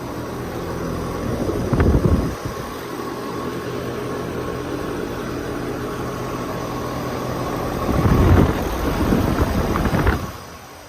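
Trane air-conditioning units running with a steady hum of fans and compressor. Louder rushing surges come about two seconds in and again late in the clip, then the sound drops away sharply near the end.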